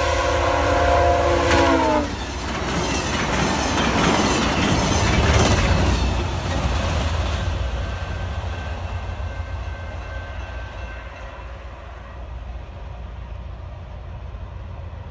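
VIA Rail passenger train's horn sounding a chord of several tones that drops in pitch as the train reaches the crossing, then cuts off about two seconds in. The train then rushes past with wheels clacking over rail joints, the noise fading away after about eight seconds.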